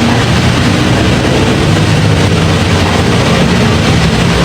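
Steady, loud rumble and road noise of a moving vehicle.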